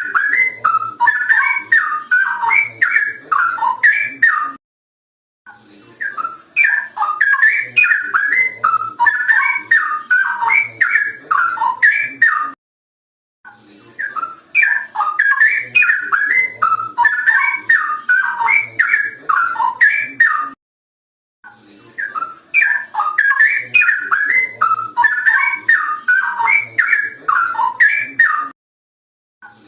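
Straw-headed bulbul (cucak rowo) singing loudly: rich, rapid warbling whistles in long bursts, each cut off by a silent gap of about a second, four bursts in all.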